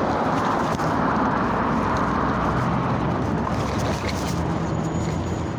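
Wind and road noise from a moving electric scooter, picked up by a phone in a vest pocket: a steady, loud rushing with a low rumble and fabric muffling.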